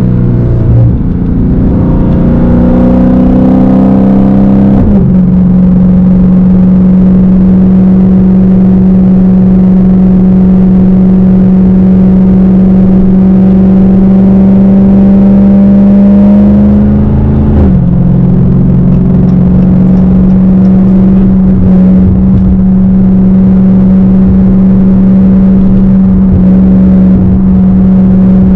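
Straight-piped Dodge Hellcat's supercharged 6.2-litre Hemi V8 pulling under way. The exhaust note climbs with the revs and falls at an upshift about five seconds in, then climbs slowly and falls again at a second shift near the end before holding steady.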